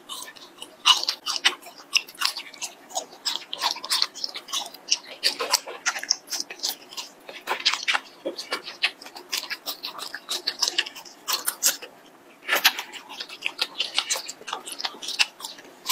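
Chewing and biting on a long, chewy strand of latiao (spicy gluten strip): a continuous, irregular run of wet mouth clicks and smacks.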